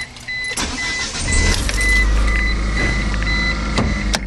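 Eagle Summit wagon's four-cylinder engine starting about half a second in and settling into a steady idle, running smoothly with a new timing belt and the exhaust leak repaired. The car's warning chime beeps over it in quick repeated tones, and there is a sharp click near the end.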